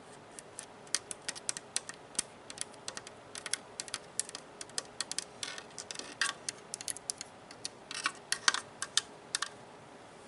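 Quick, irregular plastic clicks and taps on a Nerf gun, several a second, coming in small clusters.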